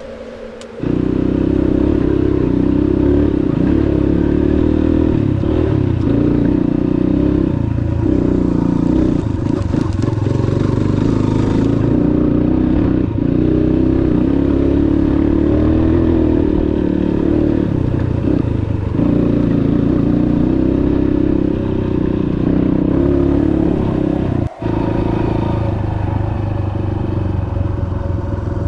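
Dirt bike engine running under way, starting abruptly about a second in, its pitch rising and falling slightly with the throttle; a brief dropout near the end.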